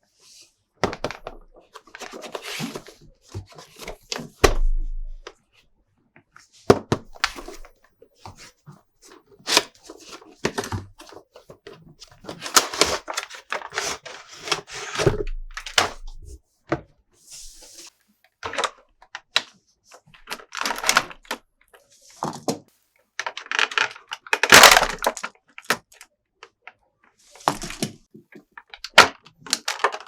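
Hands handling plastic toy parts and packaging: an irregular run of clicks and knocks, with a few rustling, crinkly stretches of a second or two.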